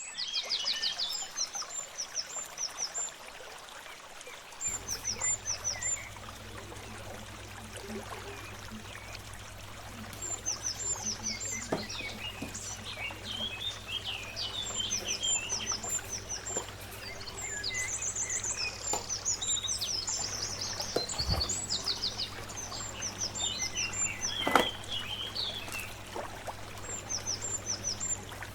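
Birds chirping in repeated short series of high notes over a steady hiss, with a low steady hum that starts about five seconds in and a couple of sharp knocks.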